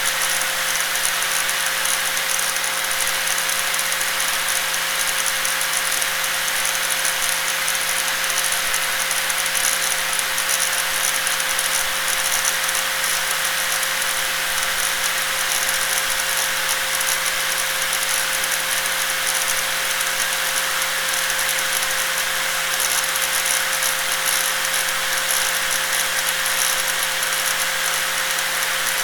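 Electric angle grinder running continuously at a constant speed: a steady high tone over a dense hiss, without change or break.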